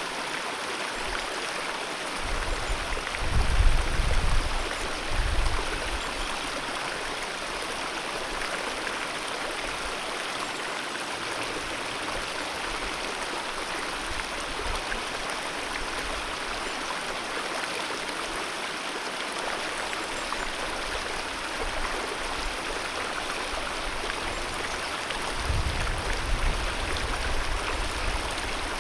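Alpine mountain river rushing steadily over rocks, a dense even wash of water, with two short spells of low rumble a few seconds in and near the end.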